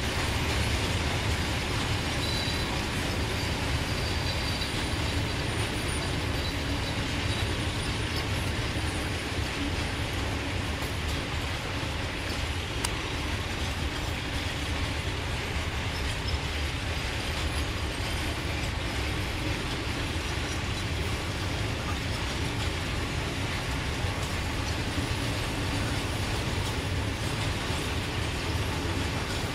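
A long freight train of open wagons loaded with scrap metal rolling past, giving a steady, unbroken rolling noise of wheels on the rails.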